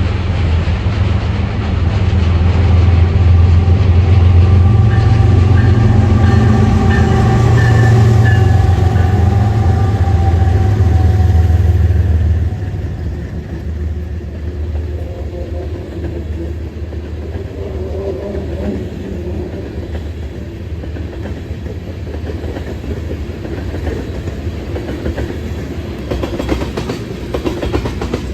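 A train passing: the locomotives rumble loudly for the first twelve seconds or so, with a held tone that sags slightly in pitch midway, then the level drops suddenly and the cars roll by more quietly, wheels clicking over the rail joints.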